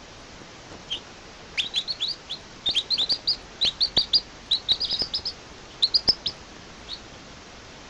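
Baby bird chirping: a quick run of short, rising, high-pitched peeps that starts about a second in and thins out near the end, over a steady hiss.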